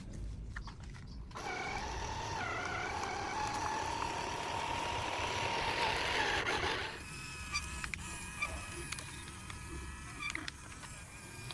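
A small electric motor, as in a toy vehicle, whirring with a steady whine that creeps slightly upward, then dropping about seven seconds in to a quieter, higher whine with scattered clicks.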